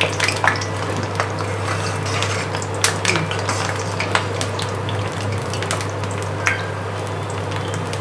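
Mutton kola urundai (minced-mutton balls) deep-frying in hot oil: a steady sizzle with scattered sharp ticks and pops, over a low steady hum.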